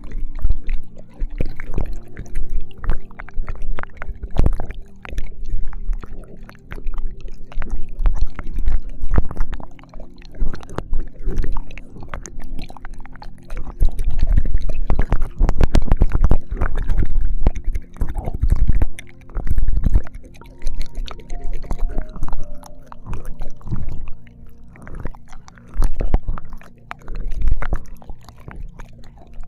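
ASMR ear-licking mouth sounds: irregular wet licks, smacks and clicks very close to the microphone, coming in dense clusters with short lulls. Faint sustained background tones sit underneath, with a few higher notes changing near the end.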